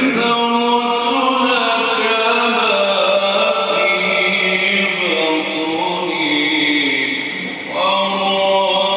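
Quran recitation: a man chanting in long, melodic held notes that bend slowly in pitch. The voice dips briefly about three-quarters of the way through, then starts a new phrase.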